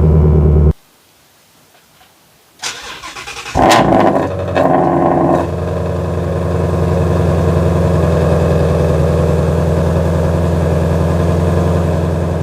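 Ford Mustang Shelby GT350's 5.2-litre Voodoo V8 idling, then stopping abruptly under a second in. After about two seconds of near silence the starter cranks, and the engine fires with a loud flare of revs before settling into a steady idle.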